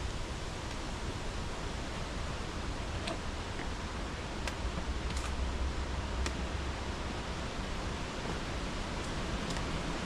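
Steady rushing outdoor noise with a low rumble swelling about halfway through and a few faint clicks.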